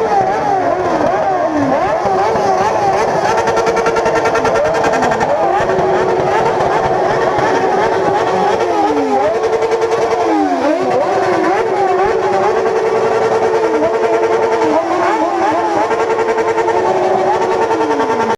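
Several motorcycle engines revving hard at once, some held at the rev limiter with a stuttering buzz for a second or two at a time, and others dropping back down between blips.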